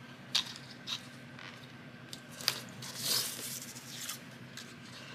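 Paper and craft tools being handled on a work table: a few sharp clicks and taps with a short paper rustle about three seconds in, over a faint steady hum.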